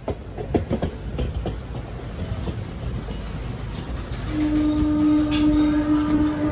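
Indian express train pulling away from a station, its wheels clicking and knocking over the rail joints. About four seconds in, a locomotive horn sounds one long steady note, the loudest sound here.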